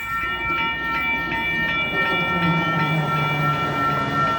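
Western Cullen Hayes electronic crossing bells ringing rapidly, about three to four strikes a second, while a train accelerates away with a low rumble and hum.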